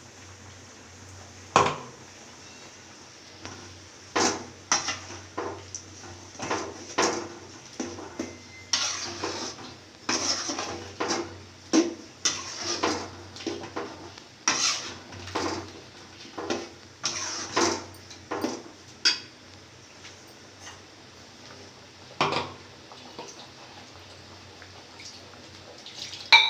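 Metal kitchen utensils knocking and scraping against cooking vessels: a long run of irregular clinks and short scrapes, dense through the middle and thinning out near the end.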